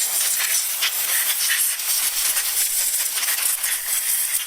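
Compressed-air blow gun blasting dirt off the outside of a small-engine carburetor: a loud, steady rushing hiss that wavers a little as the air stream moves over the part.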